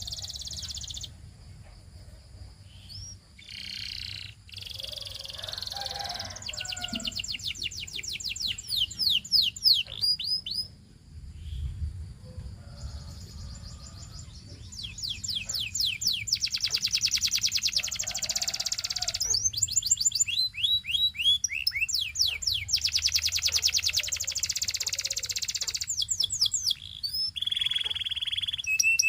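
Canary singing, in long fast trills of repeated high notes, phrase after phrase, with a short break in the song near the middle.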